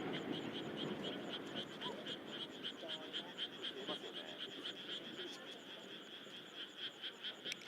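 Frogs calling in a steady rapid pulsing chorus, about six short calls a second, over the fading low rumble of the previous fireworks.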